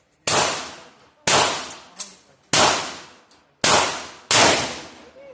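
Five gunshots in an irregular string, the last two close together, each sharp crack dying away over about half a second.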